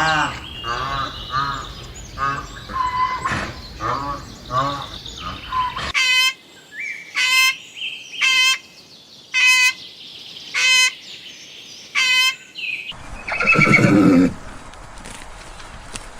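Animal calls in three distinct runs: about six seconds of short rising-and-falling calls in quick succession, then six short calls about a second apart, then one loud call near the end.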